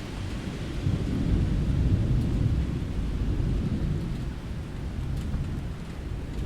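Rolling thunder rumbling low over steady rain on a window. The rumble swells about a second in and eases off near the end.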